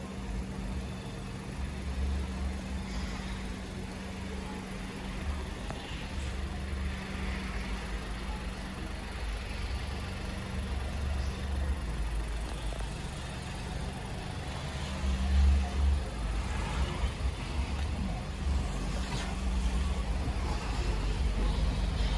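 Mk8 Volkswagen Golf idling steadily with a low, even hum.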